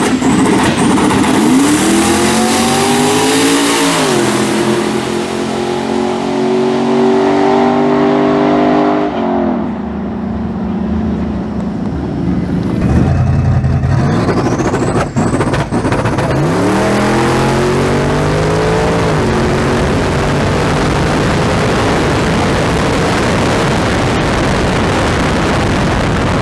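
Twin-turbo Chevrolet S10 drag truck making a full-throttle pass: engine revs climb, step down at a gear change, then hold high for several seconds before dropping away. A second climb in revs follows a few seconds later, with a faint high rising whistle at each launch.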